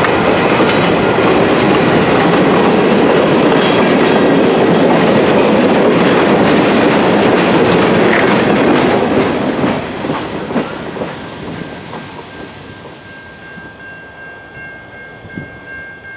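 An excursion train passing close by, its wheels clicking over the rail joints, then fading away after about nine seconds as it moves off. A faint steady tone lingers near the end.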